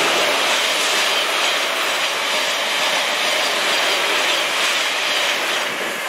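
Electric multiple-unit passenger train running past at speed: a steady rush of wheel, rail and air noise that eases slightly near the end as the last carriages go by.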